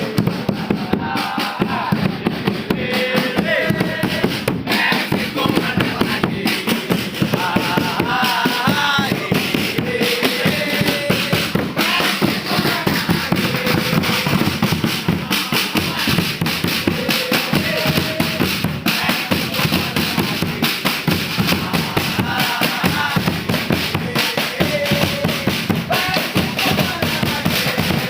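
Football supporters' crowd singing a chant over fast, continuous drumming on bass and snare drums.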